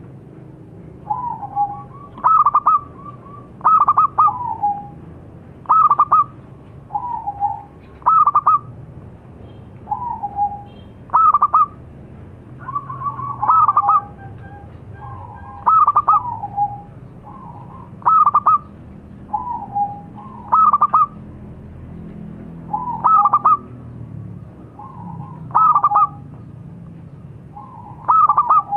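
Zebra dove (local perkutut) cooing, repeating its phrase about every two seconds: a lower note followed by a higher, stuttering coo, over a faint low hum.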